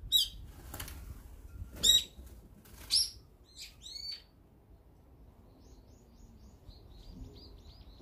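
Wild birds calling: three loud, harsh, downward-sliding calls in the first three seconds, a couple of softer ones around four seconds, then a quick run of high chirps from about six seconds on.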